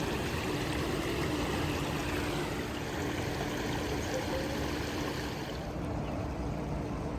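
Canal boat engine running steadily, a low hum under a steady wash of water noise.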